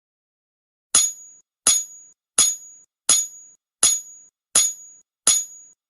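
Seven sharp metallic clinks at an even beat, about one every three quarters of a second, each with a short high ring, starting about a second in.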